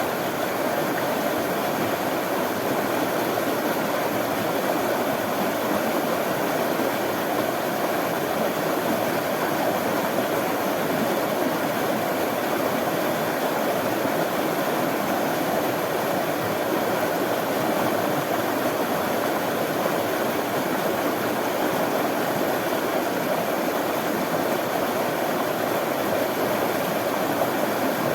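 Running water rushing steadily and evenly, with no pauses or changes.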